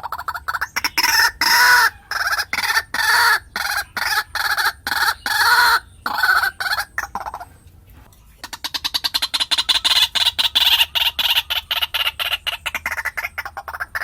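White-breasted waterhen calling: a loud, monotonous series of repeated croaking notes, two or three a second, a brief break about eight seconds in, then a faster run of notes.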